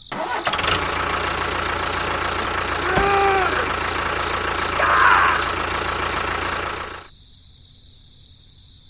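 A small engine running with a steady, rough noise for about seven seconds, then cutting off. A short pitched tone about three seconds in and a brief chirp near five seconds sit over it.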